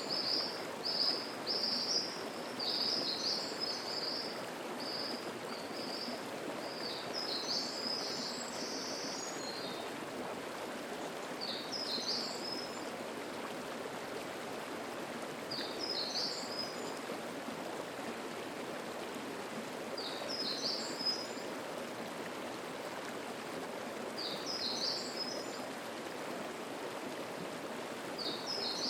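Mountain stream flowing steadily over rocks, with a songbird singing short high phrases: a quick run of notes in the first several seconds, then one phrase about every four seconds.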